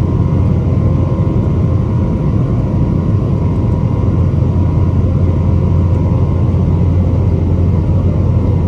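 Steady jet engine and airflow rumble inside the cabin of a Boeing 777-300 with Rolls-Royce Trent 800 engines, heard from a window seat after takeoff. A faint steady hum at a few pitches sits over the low roar.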